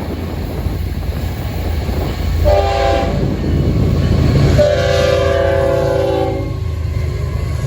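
Florida East Coast Railway freight train's locomotive air horn sounding a short blast and then a long one, a multi-note chord, over the steady low rumble of the diesel locomotives passing.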